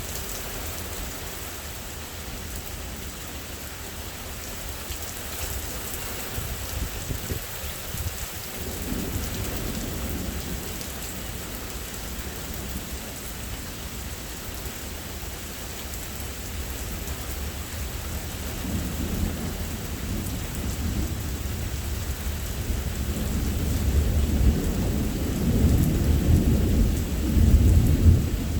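Thunderstorm: steady heavy rain with rolling thunder rumbling, a brief rumble about a third of the way in and a longer one building through the last third.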